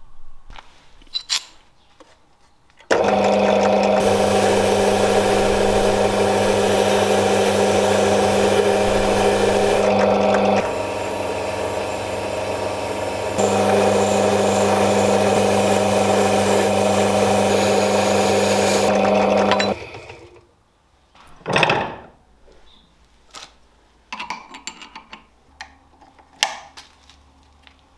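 A power tool runs steadily for about seventeen seconds, dropping in level for a few seconds midway, then stops. Scattered light knocks and clicks come before and after it.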